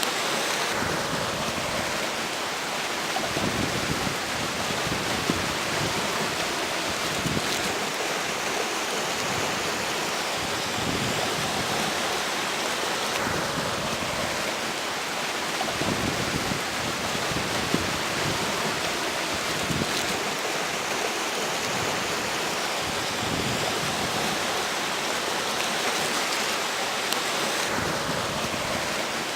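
River water rushing steadily, with strong gusty wind buffeting the microphone in irregular low rumbles.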